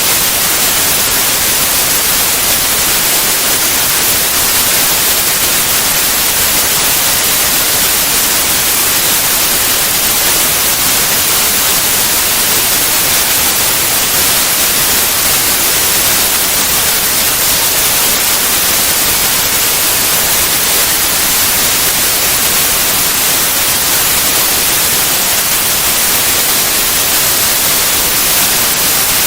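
Steady white noise, an even hiss across all pitches that does not change.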